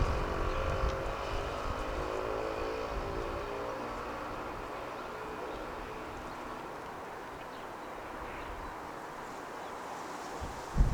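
A motor vehicle's engine passing below and fading away, its drone sinking slightly in pitch over the first few seconds, leaving a faint steady background hum. Wind buffets the microphone near the end.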